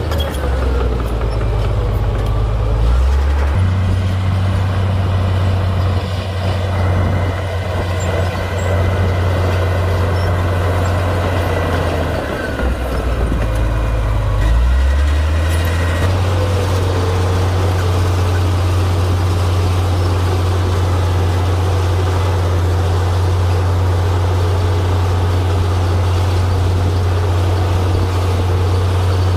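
Komatsu D58P crawler bulldozer's diesel engine running under load while pushing dirt. The engine note drops lower twice, near the start and about halfway through, for a few seconds each time, before rising back and holding steady.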